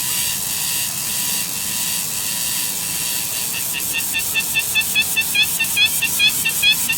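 A bird giving a rapid, even run of short high chirps, about five or six a second, starting about halfway through, over a steady high hiss.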